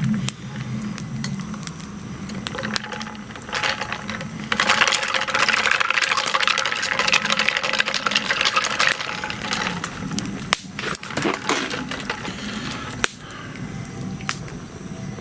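Wood campfire crackling with scattered sharp pops, and a steady hiss that rises about four and a half seconds in and dies away after about four seconds.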